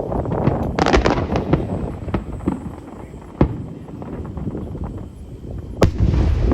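Aerial fireworks bursting: a run of sharp cracks and crackling about a second in, then single loud bangs mid-way and near the end, the last followed by a low rumbling echo.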